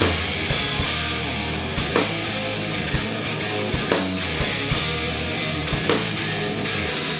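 Live rock band playing an instrumental passage between vocal lines: electric guitars, bass and a drum kit, with sharp drum hits about once a second.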